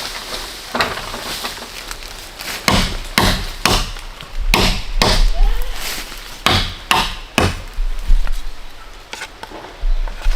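Chopping blows on wood, about a dozen sharp strikes at an uneven pace.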